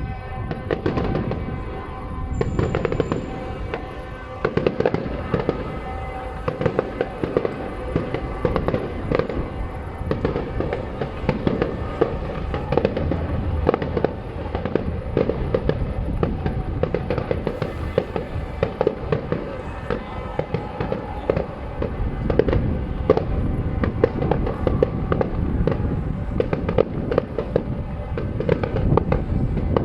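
Fireworks display: a dense, continuous barrage of bangs and crackles going off in quick succession.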